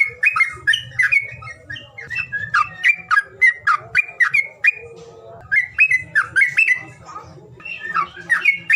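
Songbird singing loud, fast chattering phrases of short sweeping whistled notes, several notes a second, broken by brief pauses. It is a recorded calling song of the kind played to get silent caged birds to start singing.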